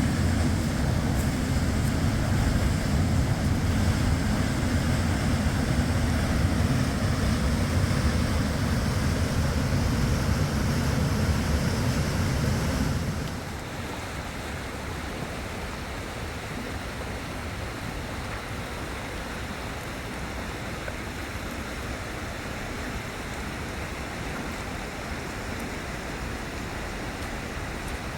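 Rushing river water, loud with a heavy low rumble, possibly wind on the microphone. About 13 seconds in it cuts abruptly to a softer, steady rush of water.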